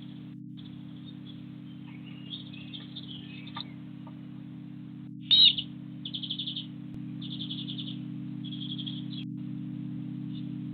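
Garden bird calling: one loud sharp call about halfway through, then three short rapid trills about a second apart, over a steady low hum.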